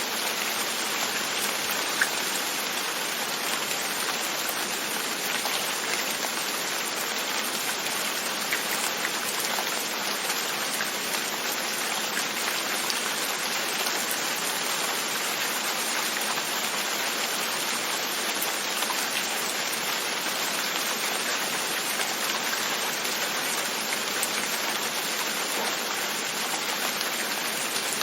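Steady rain pattering on a window, with scattered drop ticks and one sharper drop about two seconds in.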